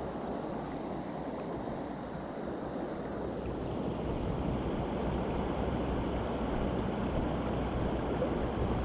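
Mountain stream water rushing steadily over rocks, a continuous hiss and rumble that swells a little about halfway through.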